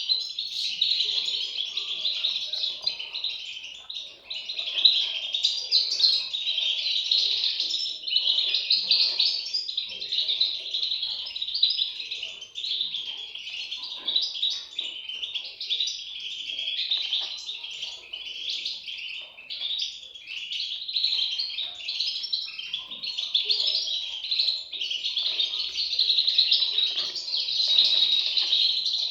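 European goldfinch chicks calling together without pause, a dense high-pitched chirping.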